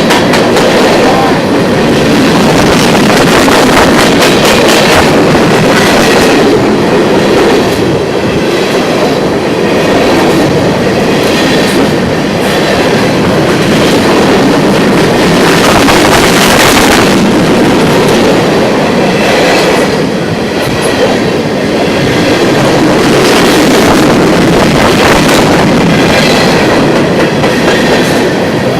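Train passing close by: wheels rolling steadily and clacking over the rail joints, loud and continuous.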